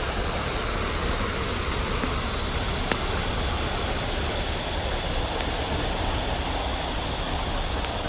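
Steady rushing of river water, with a few faint sharp clicks, the clearest about three seconds in.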